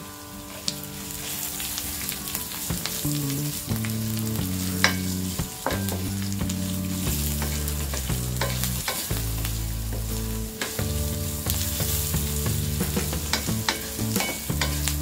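A wooden spatula stirring and scraping chana dal, sesame seeds, onion and garlic frying in oil in a stainless steel kadai, with a light sizzle and irregular clicks and scrapes against the metal.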